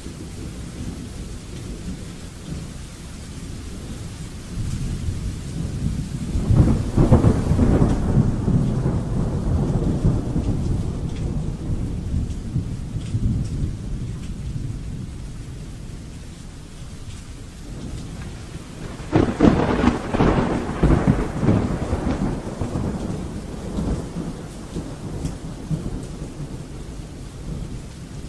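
Steady rain with two rolls of thunder. The first swells about a quarter of the way in and rumbles on for several seconds; the second breaks more sharply about two-thirds of the way in and rolls away.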